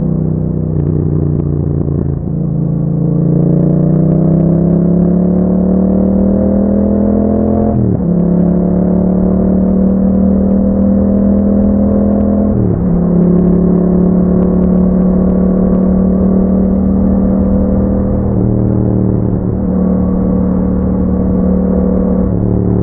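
Yamaha MT-07's parallel-twin engine through an Akrapovic exhaust, riding along under load: the pitch climbs slowly, then drops sharply at gear changes about 8 and 13 seconds in and again near the end.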